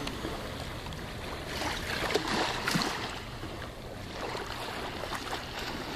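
Water lapping and splashing at the shore or against a kayak, an even rush with a few short splashes in the first half.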